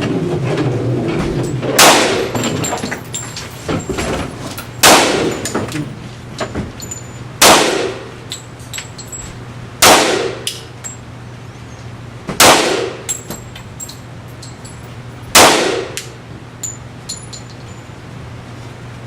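Six shots from a semi-automatic pistol on an indoor range, spaced about two to three seconds apart, each followed by a few light clinks.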